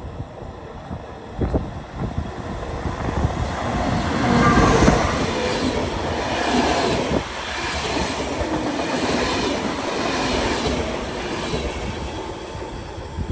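A train passing by on the railway line, its wheels clacking over the rail joints. The sound builds to its loudest a few seconds in, holds, then begins to fade near the end.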